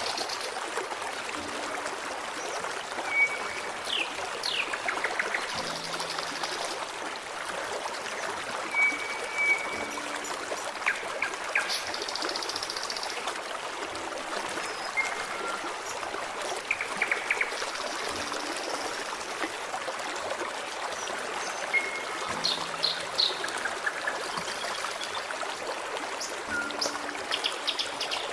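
A forest stream flowing and trickling steadily over rocks, with small birds giving short chirps and brief whistled notes every few seconds.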